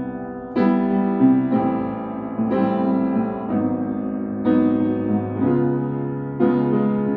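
Piano playing a jazz chord progression, a tritone-substituted ii–V. A new block chord is struck about once a second and left to ring and fade.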